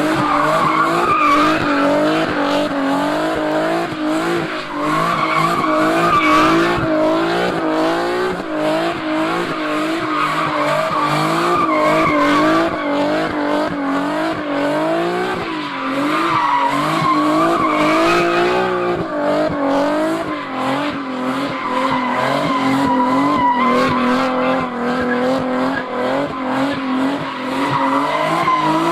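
A car engine held at high revs, its pitch wavering up and down about once a second, with tires squealing and skidding as the car slides in circles.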